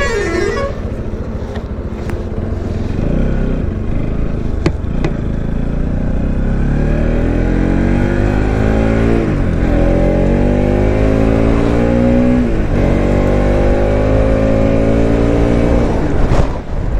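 Motorcycle engine accelerating on the road, its pitch climbing steadily, dropping sharply at two gear upshifts about nine and a half and twelve and a half seconds in, then climbing again, under constant wind rush.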